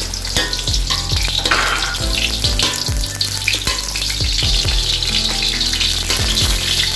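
Diced potatoes frying in hot vegetable oil and ghee in a pan, a steady sizzle.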